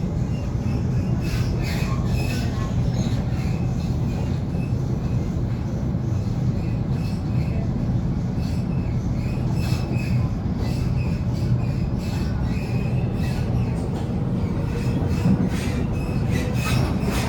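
Interior running noise of a Waratah A set electric train under way: a steady rumble of wheels on the track, with scattered clicks and brief high-pitched squeals.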